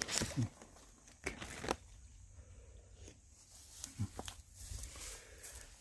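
Quiet scattered rustling and crinkling with a handful of short clicks, over a low rumble.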